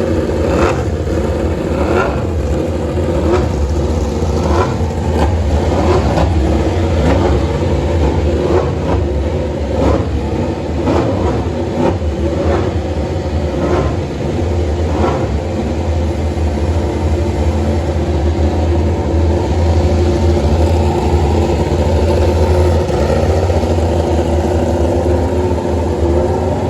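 A motor vehicle engine running with its pitch sliding up and down, over a loud steady low hum. Short sharp sounds recur about once a second through the first half.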